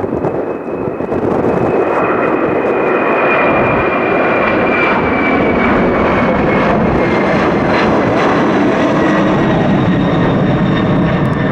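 Boeing 767's twin Pratt & Whitney JT9D-7R4D turbofans at takeoff power on departure. A loud, steady jet noise that swells about a second in, with a high whine that slowly falls in pitch as the jet passes.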